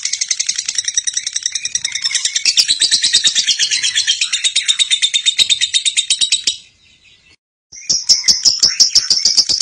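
Lovebird's long ngekek chatter: a fast, unbroken run of high-pitched repeated chirps that stops for about a second near the end, then starts again.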